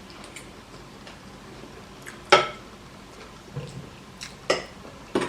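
A few sharp clinks of cutlery against a plate during eating. The loudest comes about two seconds in, with two smaller ones near the end.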